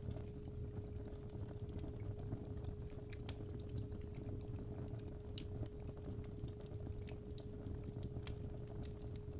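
Fireplace fire crackling with irregular sharp pops over a low rumble, under a steady 417 Hz sine tone.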